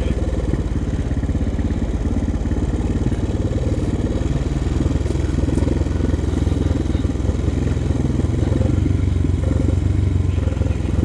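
Honda sport ATV's single-cylinder four-stroke engine running steadily while riding at low speed, with no sharp revving.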